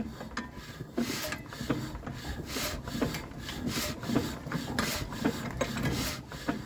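A 1931 Ruston engine being hand-cranked over without firing, in an uneven run of rasping, scraping strokes.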